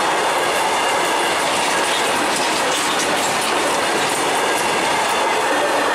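Loaded BOXN freight wagons rolling past at speed: a steady rumble and clatter of steel wheels over the rails.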